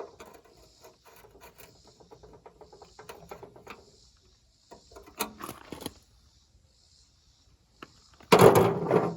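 Small metal hand tools clicking and scraping as they are handled and worked against screws, then a loud metallic clatter over the last second.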